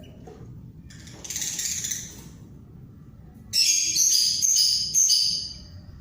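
Pet bird calling: a short raspy screech about a second in, then a loud run of shrill, piping call notes lasting nearly two seconds.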